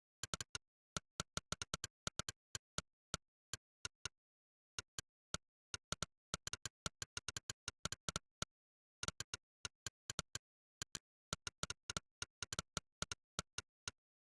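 Monkeytype's "click" typing sound effect: a short, crisp digital click for every keystroke, coming in quick irregular runs with brief pauses, in the rhythm of fast typing.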